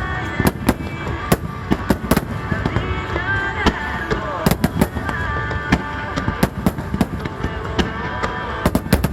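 Aerial fireworks bursting in quick succession, several sharp bangs a second, with music playing underneath.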